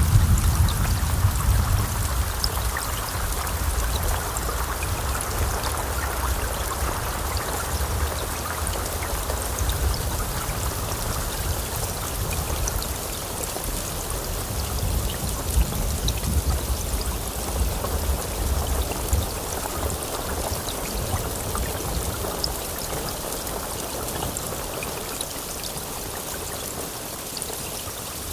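Heavy rain falling steadily, with low rolling thunder rumbling under it that is strongest at the start and again in the middle, then dies away toward the end.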